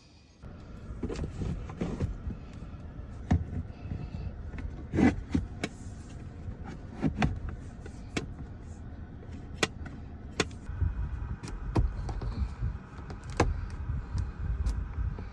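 Objects being handled and set down inside a car: a dozen or so sharp clicks and knocks over a low rumbling noise that grows stronger about two-thirds of the way through.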